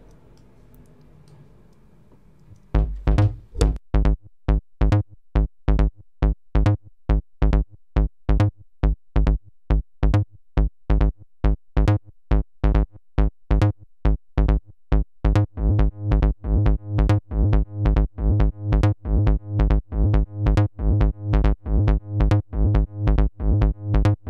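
Psytrance-style bass line from the Serum software synthesizer playing in a loop: short, plucky square-wave bass notes over a kick drum. It starts about three seconds in, and about halfway through the notes come faster and denser.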